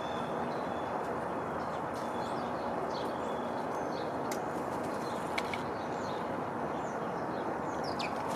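Small birds at a feeder giving many short, high chirps, with a few sharp clicks, over a steady rushing background noise.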